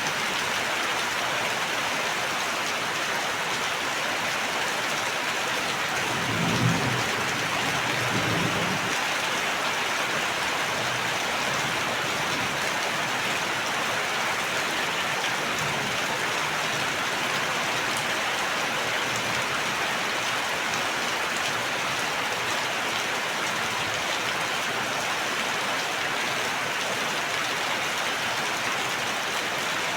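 Steady rainfall hissing on surfaces, with a short low rumble about six seconds in.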